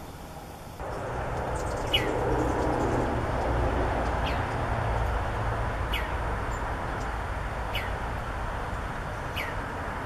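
A small bird calling five times, each call a short note falling in pitch, repeated about every second and a half, over a steady low outdoor rumble and hiss.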